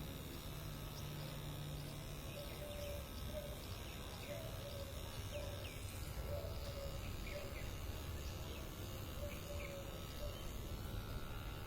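Birds chirping in short, scattered calls over a steady background hum of outdoor noise.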